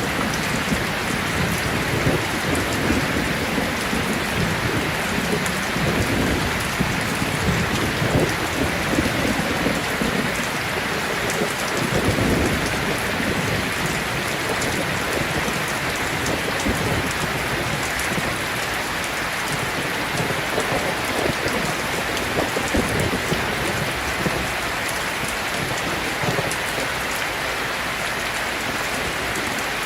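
Heavy rain falling steadily, with low thunder rumbling, mostly in the first half.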